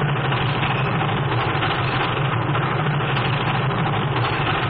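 Train running, a steady unbroken rumble with no distinct beats, heard on a muffled early sound-film track.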